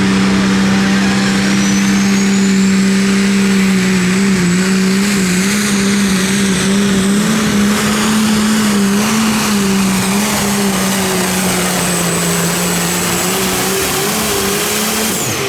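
Pulling tractor's turbocharged diesel engine running flat out through a pull, its pitch wavering slightly, with a high turbo whistle that climbs over the first few seconds and then holds. The engine drops off sharply right at the end.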